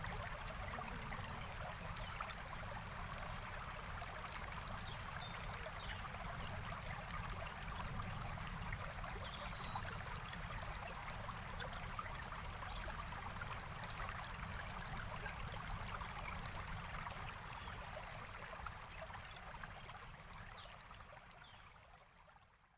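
Forest stream flowing steadily, with faint scattered crackles of a campfire and a few short bird chirps, fading out over the last few seconds.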